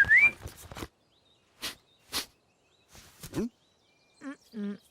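Cartoon sound effects: a short whistling swoop at the start, then a few quick breathy puffs, and two brief wavering animal whines near the end.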